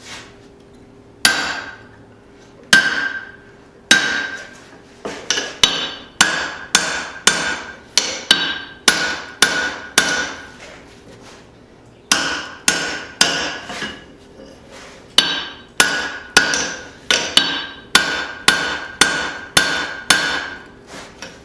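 Hammer blows driving a steel drift into the punched eye of a hot forged hammer head, each blow ringing. The first few blows are spaced out, then they come about two a second. There is a short pause about halfway through, then the steady blows resume.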